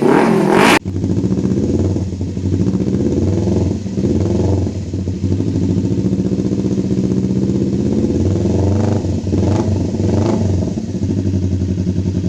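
Kawasaki Ninja 250 FI motorcycle engine heard through an aftermarket exhaust: a rev that rises and falls, cut off abruptly in the first second, then a steady idle with a few light throttle blips in the second half.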